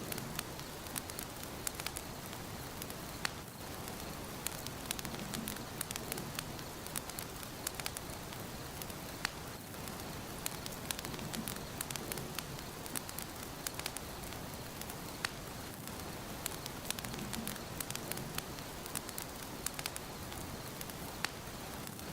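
Wood fire in a fireplace crackling: a steady hiss with frequent small, irregular pops and snaps.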